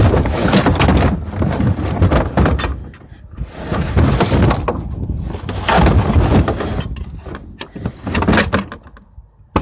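A wooden board being shoved into a truck bed against a heavy engine: loud scraping and clattering with many sharp knocks, in four long bursts with short pauses between.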